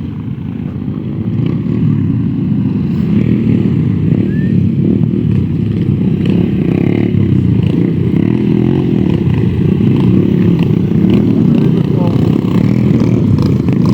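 Trail motorcycles' engines running and revving close by, several at once, growing louder after about two seconds.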